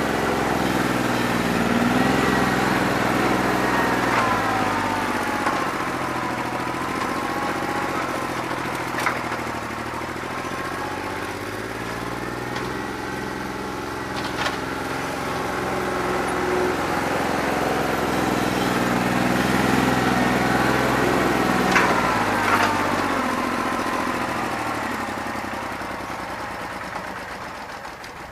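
New Holland 1320 tractor's three-cylinder diesel engine running, its speed rising and falling several times, with a few sharp metallic clanks. It is running rough on a bad injector, with one cylinder only partly firing. The sound fades near the end.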